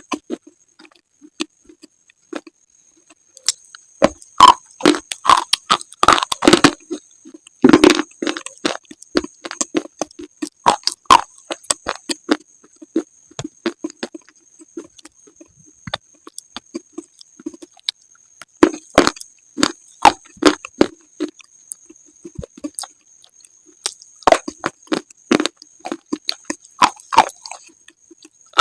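Slate being bitten and chewed close to the microphone: clusters of sharp crunches and cracks with short pauses between them.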